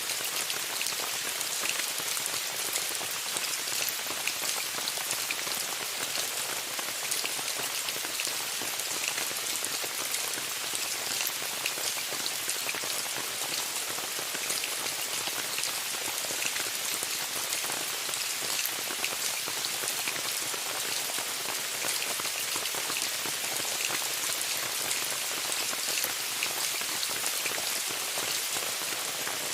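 Steady rain falling on a tent: an even, high-pitched hiss of drops with many small individual ticks, unchanging throughout.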